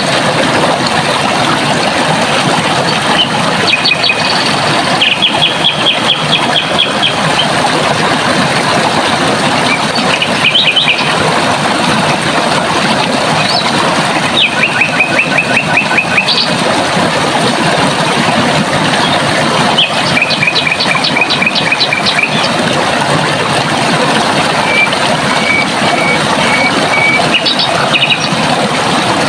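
Running water rushing steadily, with small birds singing short, high trills of rapidly repeated notes every few seconds over it.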